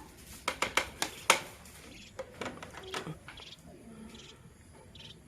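A quick run of sharp clicks and taps about half a second to a second and a half in, followed by fainter scattered ticks.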